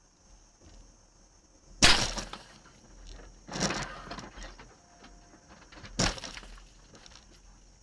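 Car crash: three heavy crunching impacts about two seconds apart, the first the loudest, each dying away quickly.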